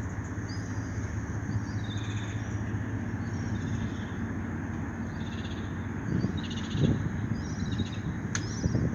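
Small birds chirping repeatedly over a steady low mechanical hum.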